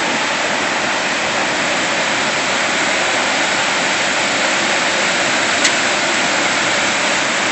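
Waterfall rushing, a steady loud roar of falling water, with one brief click a little over halfway through.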